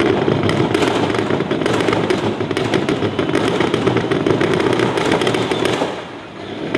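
Pro stock semi-truck's diesel engine at full throttle under pull load, its exhaust crackling and popping rapidly. The engine sound falls away sharply about six seconds in.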